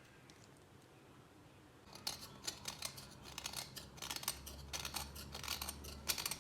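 Quiet for about two seconds, then a run of crisp, irregular cutting snips and clicks, several a second: a blade cutting through something firm.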